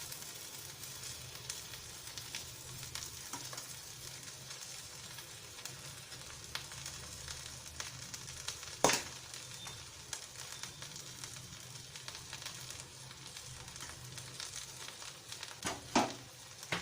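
Steady sizzling and crackling from a biryani pot on a gas flame as rice is layered in, with a few sharp knocks against the pot, the loudest about nine seconds in and two more near the end.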